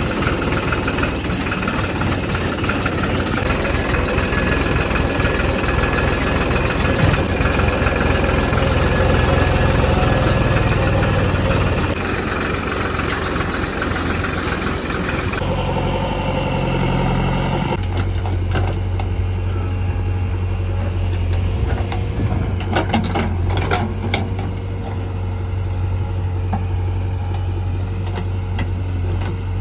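Diesel engine of heavy earthmoving machinery, a backhoe loader or tractor, running steadily. Its sound changes abruptly a few times, and there are several sharp knocks a little past the middle.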